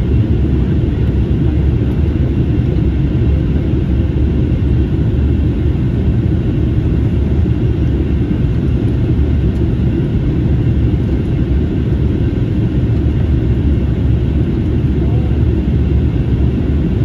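Steady low roar inside an Airbus A321neo airliner's cabin in flight: engine and airflow noise.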